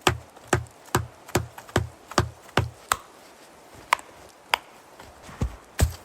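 A quick run of sharp knocks with a dull thud under each, about two or three a second for roughly three seconds, then a few more spaced-out knocks.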